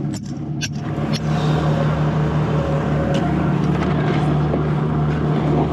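A few last beats of music with tambourine-like strikes, then from about a second in an engine running steadily with a low hum.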